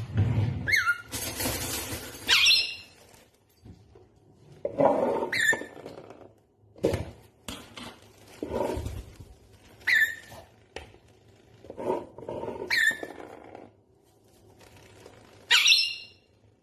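Pet parrot giving about six short, shrill squawks that drop in pitch, spaced a few seconds apart, with rustling and a few knocks between them.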